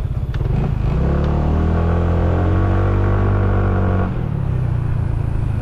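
A road vehicle's engine pulling away after a speed bump, its note rising slowly for about three seconds, then dropping off abruptly about four seconds in as the throttle eases.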